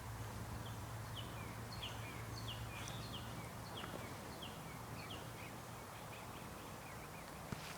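A songbird calling: a string of short, high, downslurred chirps, about two a second, over a faint steady outdoor background noise.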